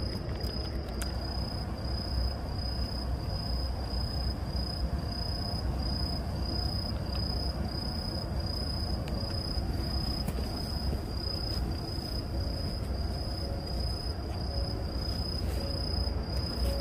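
Crickets chirping, a steady high-pitched pulsing trill, over a low background rumble.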